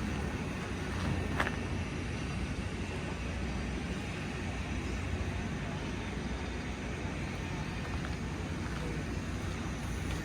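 Steady low rumble of outdoor background noise, with one brief click about a second and a half in.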